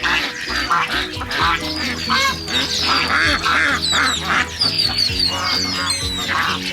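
Ducks quacking repeatedly over light background music.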